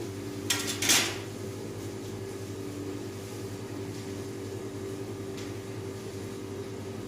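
Two short clatters of metal kitchenware or utensils about half a second and one second in, over a steady mechanical hum.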